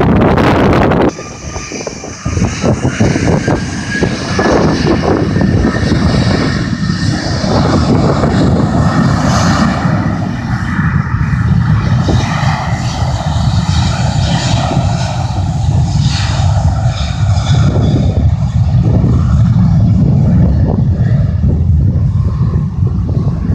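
Jet airplane engines running loud, a heavy rumble with a whine that rises in pitch over the first few seconds and then holds. It opens with a burst of wind on the microphone that cuts off about a second in.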